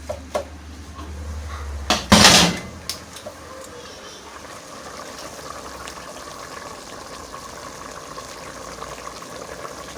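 A short loud clatter of a cooking pot about two seconds in, then the steady faint hiss of a pot of chicken broth simmering.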